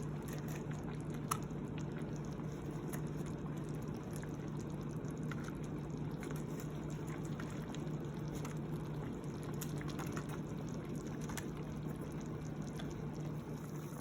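Pot of hot pot broth bubbling at a steady boil, with small scattered pops and a steady low hum underneath.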